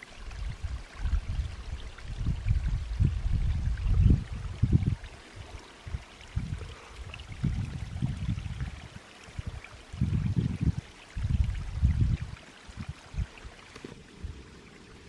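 Wind gusting across the microphone: irregular low rumbling buffets, strongest about four seconds in and again around ten to twelve seconds, over a steady faint hiss. The buffeting dies away near the end.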